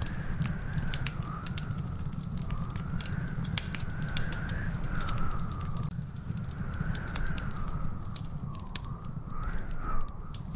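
Wood fire crackling and popping in a fireplace, with dense irregular snaps over a steady low rumble. A continuous whistling tone wavers slowly up and down in the background throughout.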